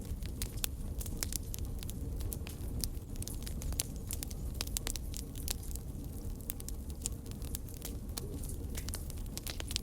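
Wood fire burning steadily: a low rumble of flame with frequent irregular crackles and pops.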